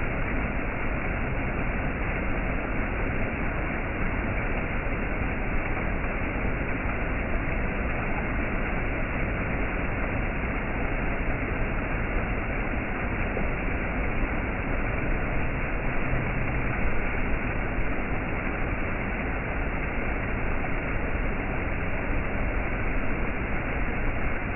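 Waterfall: falling water rushing steadily and evenly, a dense unbroken noise with no changes.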